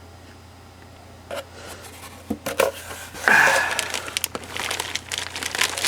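Cardboard box and packing being handled and opened: scattered knocks and scrapes, then a busier run of rustling and crinkling in the second half.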